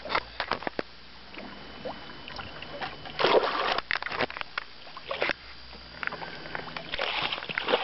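A large pike thrashing and splashing at the side of a fishing boat as it is grabbed by hand, with knocks and clicks against the boat; the loudest splash comes about three seconds in, and more splashing near the end.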